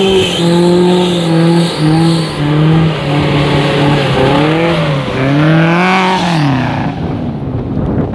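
Car engine running at high revs. Its pitch holds level and drops in steps over the first few seconds, swells up and down twice in the middle, then falls away.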